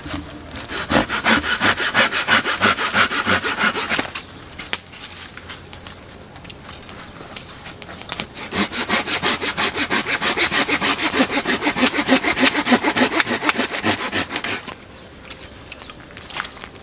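Hand saw cutting wood in quick back-and-forth strokes, in two bouts: about three seconds near the start, then about six seconds after a pause.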